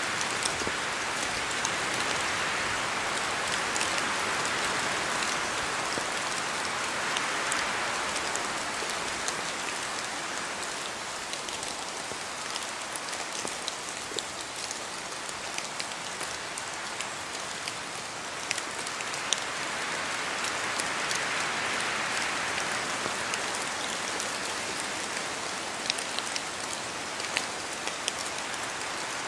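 Steady rain in a forest, with many separate drops pattering and ticking, and the rush of wind swelling and easing twice: at the start and again about twenty seconds in.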